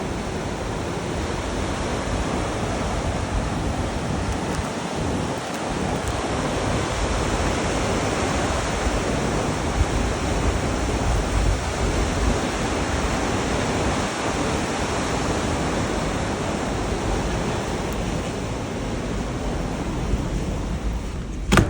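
Blizzard wind blowing hard and steadily, rushing over the microphone in slow swells. A single sharp knock comes at the very end.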